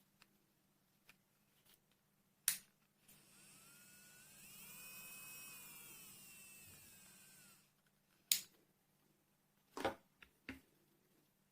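Electric nail drill motor running for about four and a half seconds with a thin, high whine whose pitch rises and then falls as it speeds up and slows. It is set off by a sharp click before it starts and another after it stops, with a few more clicks near the end.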